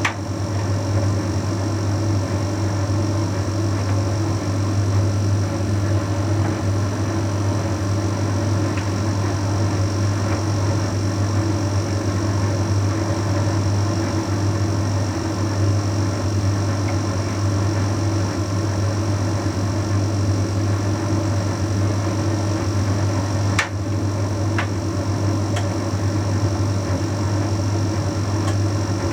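Bosch Series 6 WQG245R9GB heat pump tumble dryer running in the drying phase of a Shirts cycle, a steady hum with a low drone and a faint high whine. A few faint clicks come about two-thirds of the way through.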